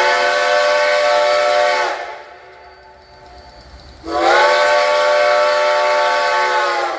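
Steam locomotive whistle sounding two long blasts, about two seconds apart. Each blast is a chord of several pitches at once with steam hiss over it.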